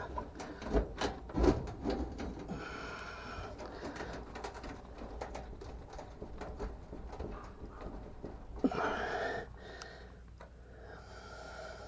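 Scattered clicks and light knocks of hands and tools working on metal parts inside an electric dryer's cabinet, with softer rustling and handling noise after.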